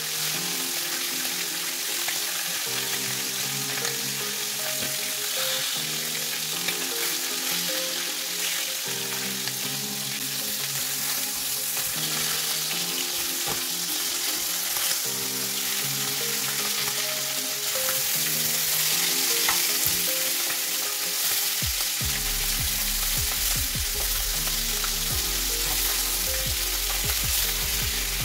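Oxtail pieces sizzling steadily as they fry in hot vegetable oil in a stainless steel pan, with scrapes and clicks as they are turned with a knife and carving fork. Background music with steady notes changing in steps runs underneath, a deep bass tone joining about two-thirds of the way through.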